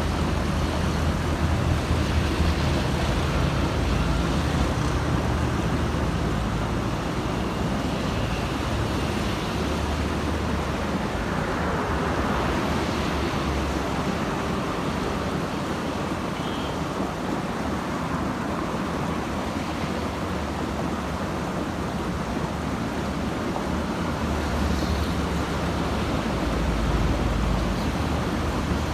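Steady road traffic with buses and trucks going by: continuous low engine rumble and tyre noise, with one vehicle passing louder about twelve seconds in.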